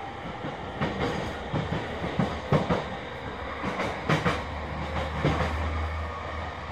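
Sotetsu 10000 series electric commuter train running: its wheels knock over rail joints, several times in quick pairs, over a steady rolling rumble.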